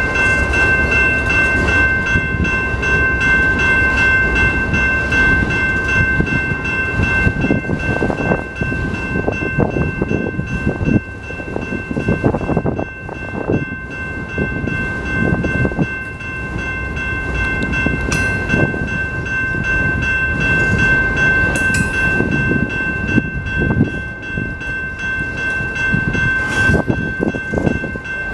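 Autorack freight cars rolling past with a steady rumble and clatter of wheels on the rails. A steady high ringing of several tones carries on over it throughout.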